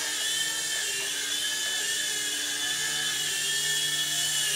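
Small electric motors of a four-channel RC toy helicopter whining steadily as the rotors spin, the pitch dipping slightly now and then.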